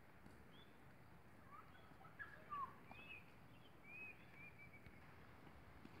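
Faint, scattered chirps of small birds: a handful of short arched and falling calls, most of them in the middle seconds, over quiet open-air ambience.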